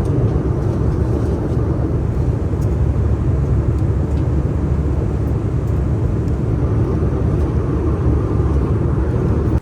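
Airliner engines and airflow heard from inside the passenger cabin: a loud, steady, deep rumble that cuts off suddenly at the end.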